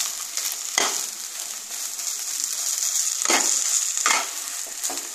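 Mashed potato and vegetable filling sizzling in oil in a nonstick pan, with a steady high hiss. A spatula scrapes and turns it about four times.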